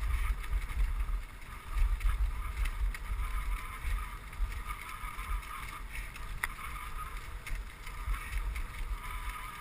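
Dog sled running along a snow trail: a steady hiss of the sled over the snow, under low wind rumble on the microphone, with one sharp click about six and a half seconds in.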